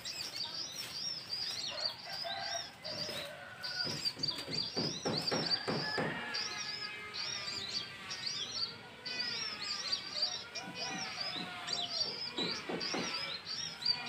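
Small birds chirping in quick, repeated, high, arching notes, with a wavering tone under them from about six to twelve seconds in.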